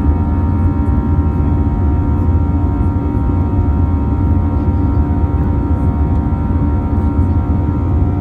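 Airbus A320-214 cabin noise heard from a window seat: the steady low rumble of its CFM56 jet engines and airflow, with several steady mid-pitched whining tones over it.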